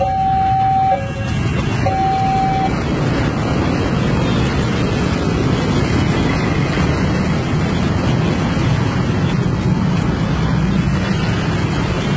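Two-tone hi-lo warning signal alternating about once a second, stopping about three seconds in, over the steady low rumble of road vehicle engines and traffic.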